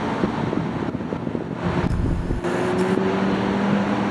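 Boeing 737 MAX 9 airliner's jet engines heard from a distance, a steady rumbling roar with a faint tone rising slightly in the second half.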